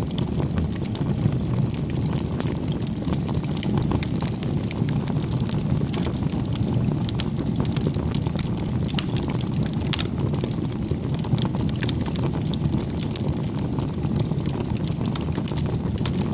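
Wood fire burning, with a steady low rush and many small, irregular crackles and pops.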